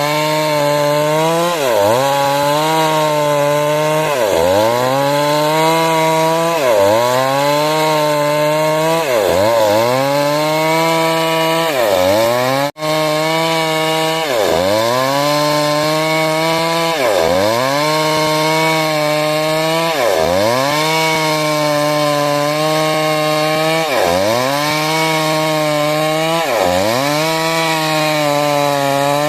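A 382 two-stroke chainsaw cutting wood, held at high revs. About every two and a half seconds its pitch drops sharply and climbs straight back.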